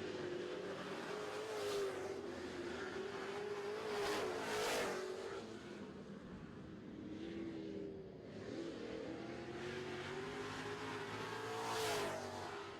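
Super Trucks racing around a dirt oval, their engines running hard and wavering in pitch. The sound swells as trucks pass, loudest about two seconds in, around four to five seconds in, and again near the end.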